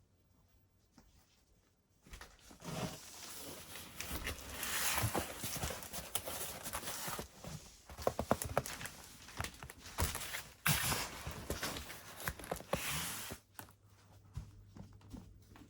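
Footsteps with knocking and rustling as a heavy cardboard parcel is carried in and handled. It starts about two seconds in and stops near the end.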